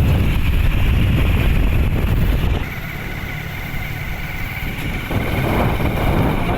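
Motorcycle running on the move, with wind rumbling on the microphone; the rumble eases about two and a half seconds in, leaving a quieter steady engine and road sound.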